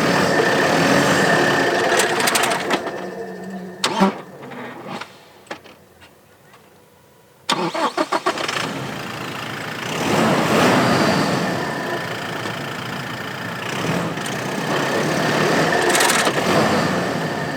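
Diesel SUV engine running under load, then cutting out about four seconds in. After a few seconds of quiet the starter cranks briefly and the engine catches, then revs as the vehicle strains, its engine plate dragging on the ground beneath it.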